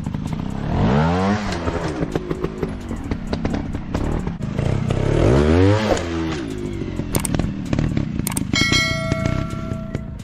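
Trail motorcycle engine revving up and back down twice over a clattering background. Near the end there is a steady ringing tone lasting about a second and a half.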